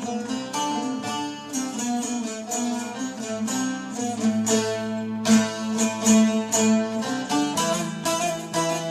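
Instrumental music from a Turkish folk song: plucked string instruments playing a melody of quick notes over sustained low notes, with no singing.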